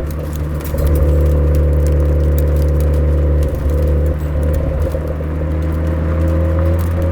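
Suzuki Swift Sport ZC33S's turbocharged 1.4-litre four-cylinder engine droning steadily through a Fujitsubo aftermarket exhaust while driving, with brief dips in level just after the start and around three and a half seconds in, and scattered light ticks over the top.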